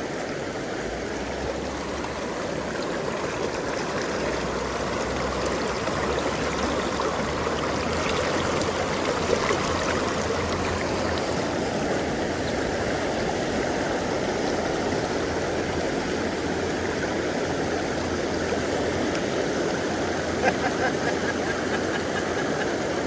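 Steady rush of river water flowing, with a faint knock or two in the middle and near the end.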